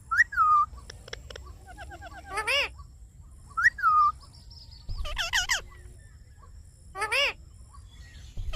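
Indian ringneck parrot calling: about five loud, sharp screeching calls in short bursts, some sliding down in pitch and some a quick run of chattering notes, with fainter rapid chirps in between.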